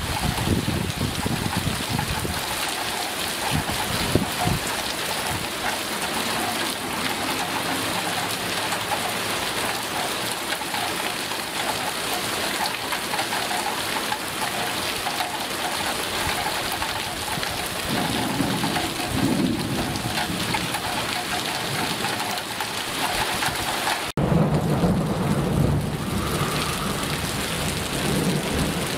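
Heavy rain pouring down steadily, with low rumbles now and then. Near the end the sound breaks off for an instant and resumes a little louder and deeper.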